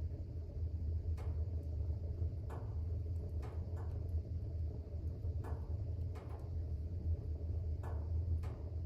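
Wood fire burning in a fireplace: a steady low rumble with about eight sharp crackles and pops scattered irregularly through it.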